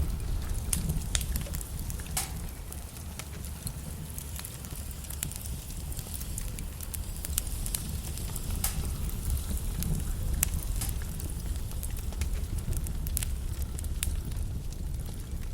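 Wood logs burning in a fireplace, crackling and popping at irregular intervals over a steady low rumble of the flames.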